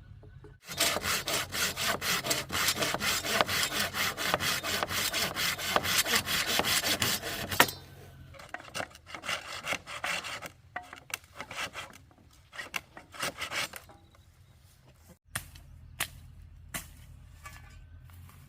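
Hand saw cutting wood in fast, even rasping strokes for about seven seconds, then slower, scattered strokes, with a few sharp knocks near the end.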